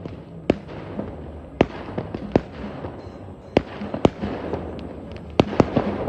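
Firecrackers going off: about eight sharp bangs at irregular intervals, several close together near the end.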